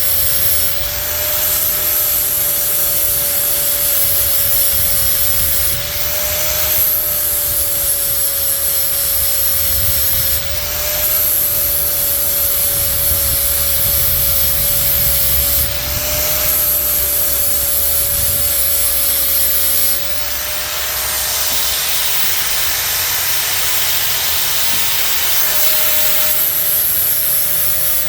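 Hand-held angle grinder running with a steady motor whine while it grinds the cutting edge of a lawn mower blade. The hissing grind breaks off briefly every five seconds or so between passes, and the motor keeps running.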